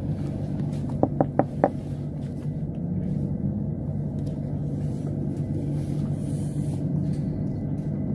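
Steady low rumble and hum of a train running, with four quick, sharp knocks about a second in.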